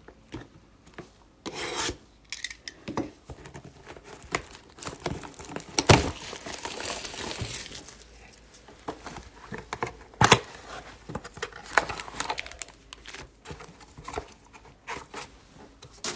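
Trading card packaging being torn open and crinkled, with scattered clicks and rustles of cards and boxes being handled; a longer tearing rustle comes about six seconds in.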